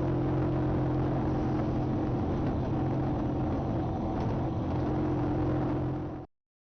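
Small motorbike engine running steadily with a low, even hum, which cuts off suddenly a little after six seconds in.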